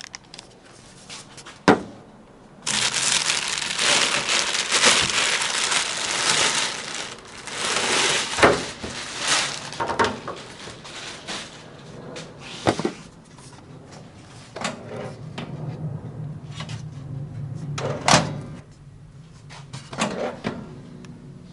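Packaging being unwrapped and crumpled, with rustling and crinkling and a few sharp knocks as parts are handled.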